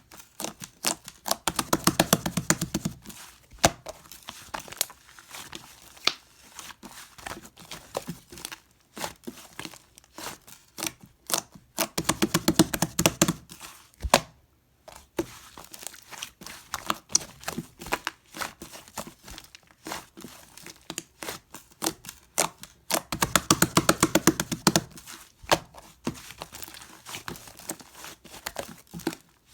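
Brown fluffy slime being squeezed and stretched, with a steady stream of sticky clicks and pops from trapped air. Three runs of rapid, dense crackling come about ten seconds apart.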